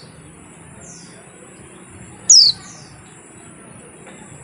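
A white-eye (pleci) gives one loud, sharp call that sweeps down in pitch about two seconds in, followed by a fainter repeat, with a faint similar call near the first second. A steady high-pitched tone runs underneath.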